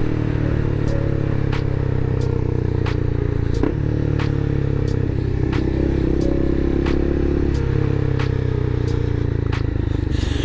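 Motorcycle engine running steadily while riding at a constant pace, with a sharp tick about every two-thirds of a second.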